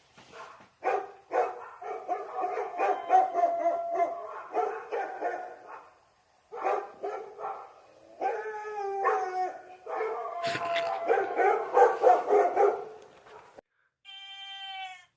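A dog barking in rapid, dense runs with drawn-out gliding cries mixed in, pausing briefly about six seconds in. A quieter wavering whine follows near the end.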